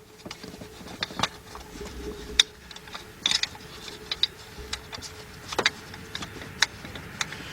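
Light, irregular metallic clicks and taps of a socket and extension as a loosened 12 mm tensioner bolt is turned out by hand, over a faint steady hum.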